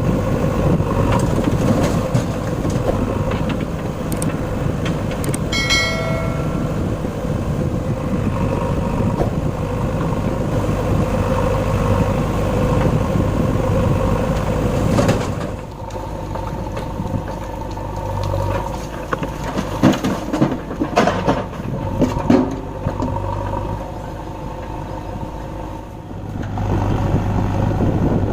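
Diesel tractor engine running steadily while hauling a loaded trolley, with a brief horn beep about six seconds in. The engine grows quieter around halfway and louder again near the end.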